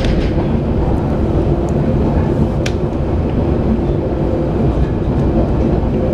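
Passenger train running along the track, heard from aboard: a steady low rumble with a faint hum, and a single brief click about two and a half seconds in.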